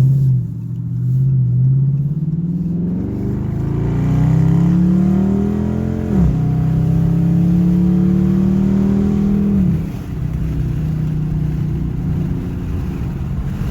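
A 2019 Dodge Charger R/T's 5.7-litre Hemi V8 at hard acceleration through Black Widow Neighborhater mufflers with the resonator deleted. The exhaust note rises with the revs, drops sharply at an upshift about six seconds in, and climbs again. Near ten seconds the throttle eases off and it settles to a steady cruising drone.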